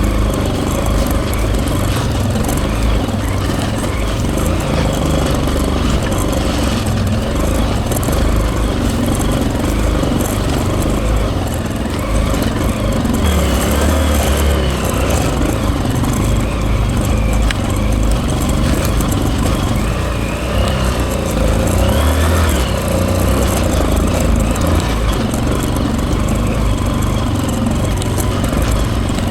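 Hero Impulse's single-cylinder motorcycle engine running hard under load on an off-road hill climb, its revs rising and falling as the throttle works.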